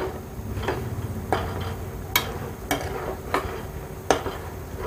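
A spoon stirring fried chicken pieces and masala in a pan, knocking against the pan about six times at uneven intervals.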